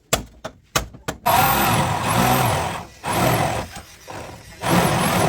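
A few sharp hammer blows about three a second, then a power tool's motor running in three long bursts, its pitch rising and falling as it is worked.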